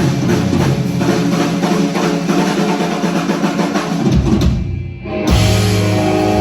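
Rock and roll band playing, drums to the fore with fast, dense strikes. About four seconds in the band stops for a moment on a held low note, then comes back in with steady bass and guitar.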